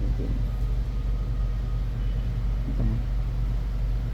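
A steady low hum or rumble of background noise. Two faint, short sounds rise out of it, one just after the start and one near three seconds in.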